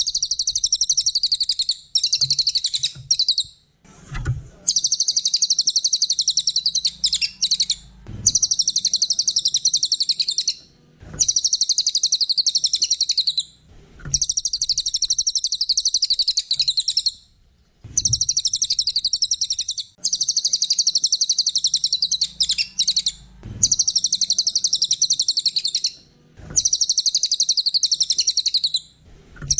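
Cililin songbird singing a high-pitched, very fast trilling song in phrases of two to three seconds, separated by short pauses. Faint low thumps fall in some of the pauses.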